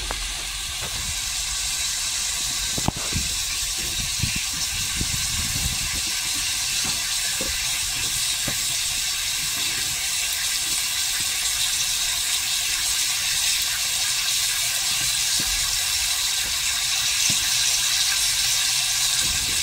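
Vegetables, tomato and spice powder frying in hot oil in a steel kadai: a steady sizzling hiss that grows slightly louder, with one sharp click about three seconds in and a few light knocks.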